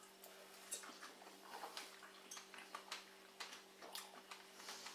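Faint, irregular wet clicks of people chewing fresh whole strawberries, a few a second, over a low steady hum.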